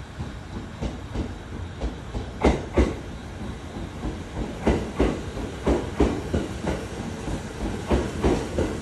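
JR E657 series electric train cars rolling slowly past over a low rumble, their wheels clacking over rail joints in regular close pairs about once a second.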